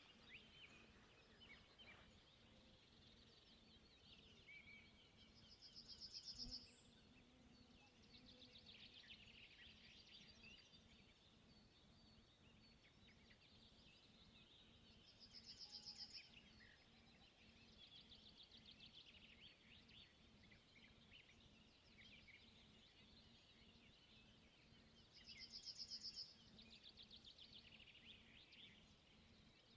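Faint birdsong: a songbird repeats a quick, trilled phrase three times, about ten seconds apart, each swelling and then ending abruptly. Softer chirps and calls from other birds fill the gaps, over a faint low hum.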